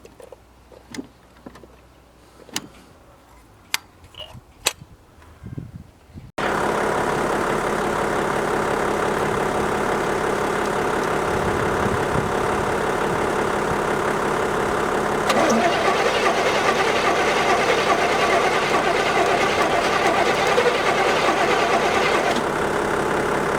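Faint clicks and knocks, then about six seconds in a 1977 Chevrolet Caprice's 350 small-block V8 comes in suddenly, running steadily on its first start after five years standing. About nine seconds later it runs louder.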